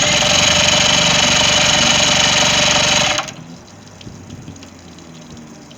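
Johnson 90 HP outboard being cranked by its newly replaced electric starter motor, a steady whirring whine with rapid pulsing that starts abruptly and cuts off suddenly after about three seconds.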